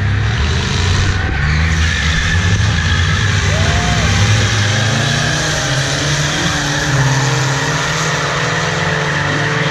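Loud car engine running, its pitch shifting up and down in steps, over a steady hiss of noise.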